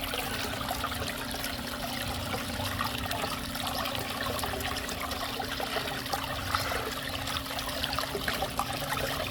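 Steady rushing noise with a low steady hum underneath and scattered faint ticks.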